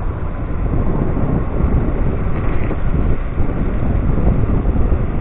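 Wind buffeting the microphone of a rider on a moving electric scooter: a steady, low rumbling noise.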